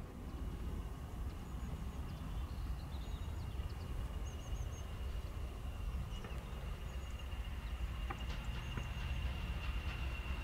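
Small birds chirping in short high notes scattered through, over a low steady rumble and a faint steady high tone.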